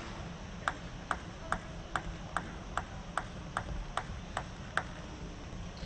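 A table tennis ball bounced repeatedly with a light, even click, about eleven bounces at roughly two and a half a second, stopping about five seconds in.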